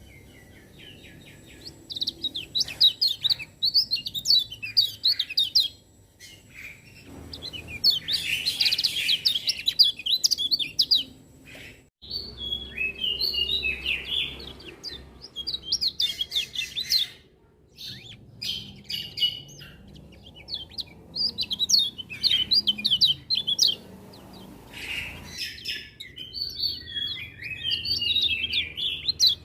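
Kecial kuning (a yellow white-eye) singing: phrases of rapid, high twittering notes, each a few seconds long, repeated with short pauses between them.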